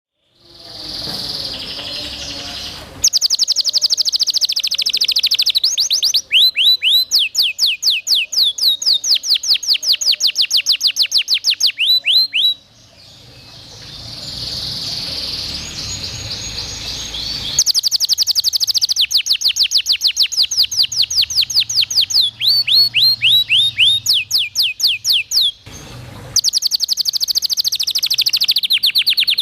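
Domestic canary singing a long, loud song made of fast trills of repeated sweeping notes. It switches to a new trill every few seconds, with buzzy rolling passages in between.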